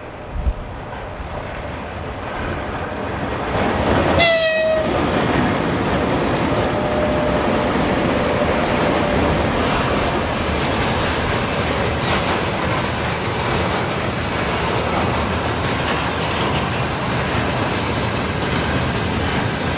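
VL85 electric locomotive giving a short horn blast about four seconds in. Its freight train then runs past with a loud, steady rumble of wheels on the rails.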